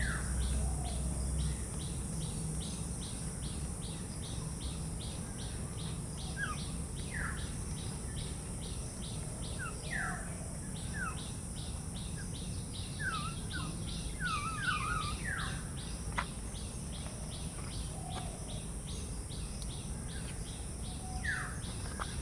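Birds giving short, scattered chirps over a steady insect chorus that pulses at about two to three beats a second, with one sharp click about two-thirds of the way through.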